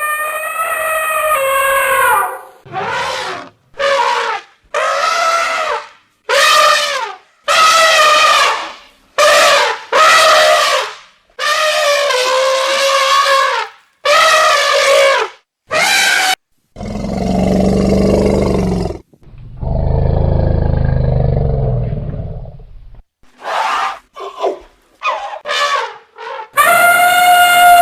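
A run of loud animal calls: about a dozen short, brassy, pitched calls that slide down in pitch, then two longer low roars past the middle, then a few short yelps and one more brassy call near the end.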